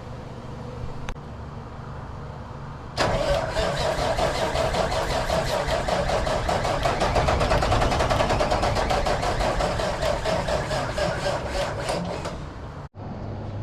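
Diesel engine of an early-1970s Mack R-model truck being cranked over by its starter, with a fast even rhythm, starting suddenly about three seconds in and stopping abruptly near the end. The engine turns over without catching: an engine that has sat unrun for years being started on ether.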